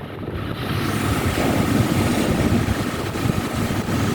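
Wind buffeting the microphone in a ragged, fluttering rumble, with a faint steady high whine coming in about half a second in.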